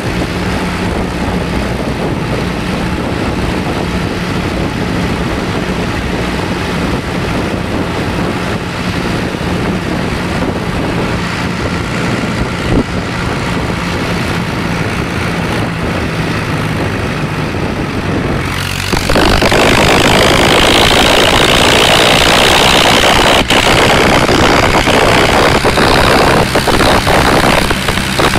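Someca 750 DT tractor engine running steadily. About two-thirds of the way through, the sound turns suddenly louder, with a harsh hiss laid over the engine.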